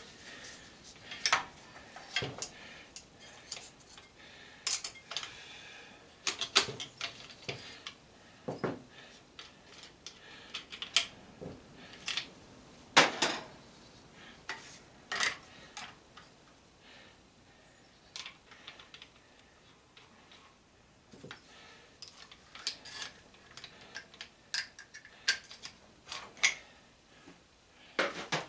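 Irregular metallic clinks, clanks and knocks of metal tools and parts being handled and set down, a few sharper strikes among lighter clicks; no power tool running.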